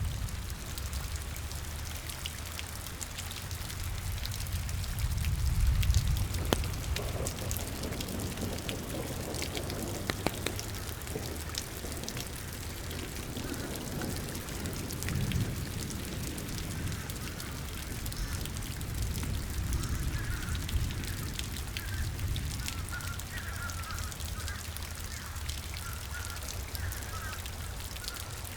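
Steady rain falling, with a low rumble swelling about five seconds in. From about the middle on, ducks quack in short, irregular calls.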